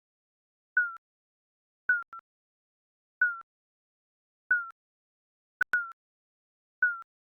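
Digital countdown timer beeps: six short electronic tones a little over a second apart, each dipping slightly in pitch, with dead silence between them. A sharp click sounds just before the fifth beep.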